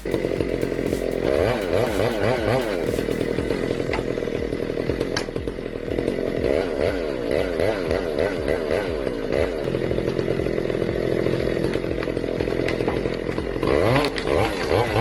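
Chainsaw running at high revs while cutting, its pitch wavering up and down without a break. It gets a little louder near the end.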